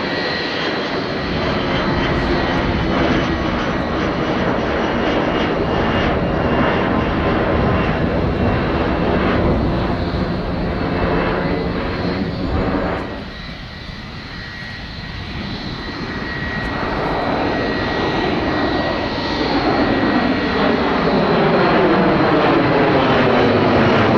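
Jet airliner engines at close range, a loud steady roar with sweeping whooshing bands as the aircraft moves past. It drops away about halfway through, then builds again and is loudest near the end as another jet draws close.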